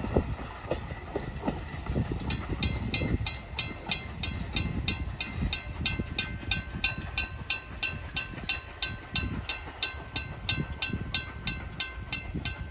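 Passing train's wheels clattering over the rails. About two seconds in, a bell starts ringing rapidly and evenly, about three strokes a second, typical of a grade-crossing warning bell.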